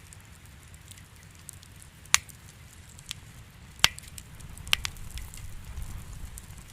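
Wood fire in a fireplace crackling: a low steady rumble with faint ticking and several sharp pops, the loudest about two and four seconds in and one right at the end.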